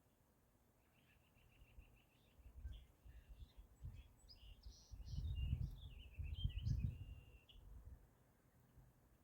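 A songbird singing: a quick run of repeated short notes, then varied chirping phrases. A low rumble swells under it and is loudest about five to seven seconds in.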